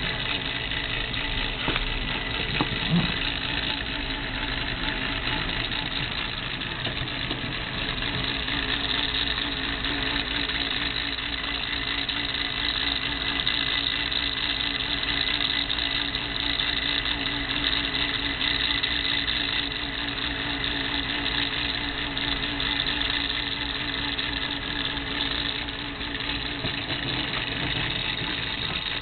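Marushin 1/6 scale Harley Panhead engine model running steadily: a small motor turning the model's moving parts, with an even whir and a slightly wavering hum.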